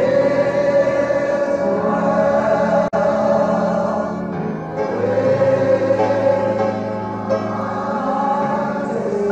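Choir singing slow, held chords over instrumental accompaniment, with a brief dropout about three seconds in.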